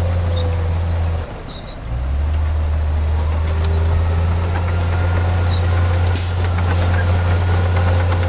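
Heavy diesel engine of earthmoving machinery running with a steady low drone. It dips for under a second about a second in, then carries on.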